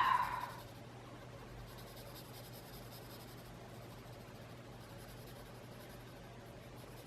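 Faint, steady scratching of colouring on a small paper tile.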